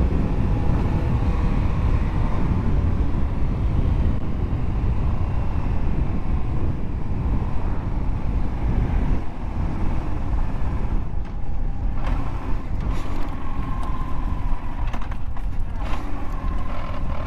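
Motorcycle engine running on the move, its pitch drifting slightly, under a heavy, steady rumble of wind on the microphone.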